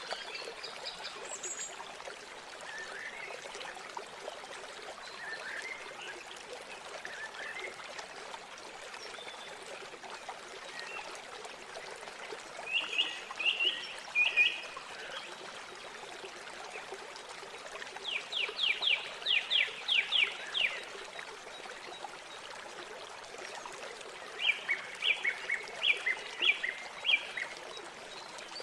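River water flowing and trickling steadily, with small birds singing over it. Three louder song phrases stand out: a few notes about halfway through, a fast run of repeated notes a few seconds later, and another broken series of notes near the end.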